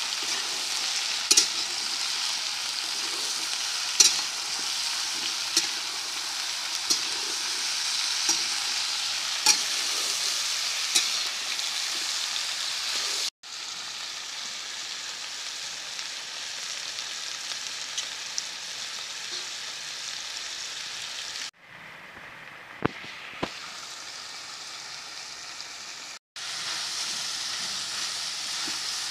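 Sliced eggplant sizzling as it fries in a steel kadhai, with a metal spatula clicking and scraping against the pan as it is stirred, a click about every second or so. About halfway through the sound cuts out briefly and the sizzle comes back quieter, without the clicks.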